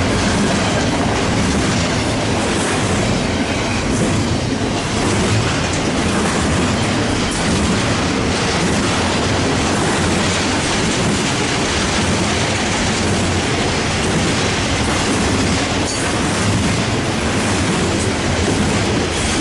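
Cars of a long BNSF double-stack container train rolling past on the track: a loud, steady rush of wheel-on-rail noise that holds throughout.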